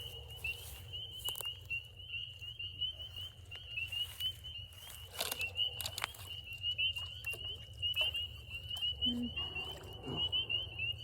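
A dense chorus of spring peepers: many short, high peeps overlapping into a steady shrill band, with a few scattered knocks.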